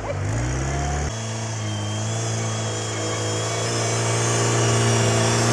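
Homemade mini-tractor's engine rising in pitch over the first second, then running at a steady pitch and growing slowly louder.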